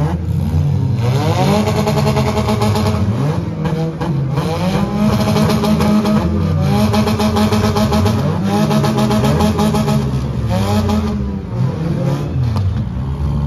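Four-cylinder demolition derby cars' engines revving hard, over and over, the pitch rising and falling every second or two as the cars accelerate, back up and push against each other.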